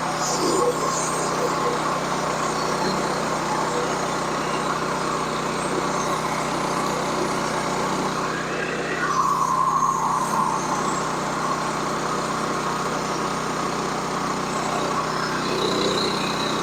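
Sawmill engine running steadily under load while the blade saws through a log, with a brief change in pitch about eight seconds in.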